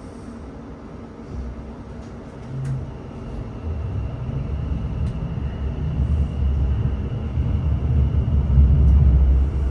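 Class 701 Arterio electric train pulling away, heard from inside the carriage: a low rumble that builds and grows louder as the train gathers speed, with a faint steady high whine over it.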